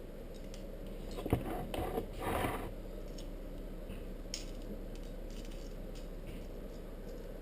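Saw chain links clicking and scraping as the chain is handled and fitted onto the chainsaw's bar, a short cluster of scrapes early on and one more click later, over a steady low background hum.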